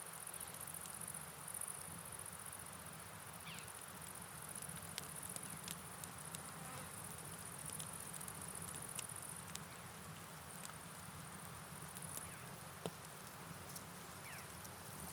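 Steady rain and flowing river water as a soft, even hiss, under a continuous high-pitched trill of night insects. Scattered light ticks fall throughout.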